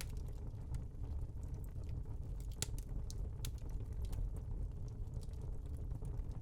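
Background ambience: a steady low rumble with sparse, irregular crackles and clicks, the loudest about two and a half and three and a half seconds in.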